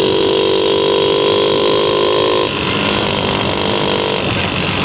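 50cc mini bike engine running hard at high revs at speed. About two and a half seconds in the engine note breaks off and drops back, then a weaker steady note carries on.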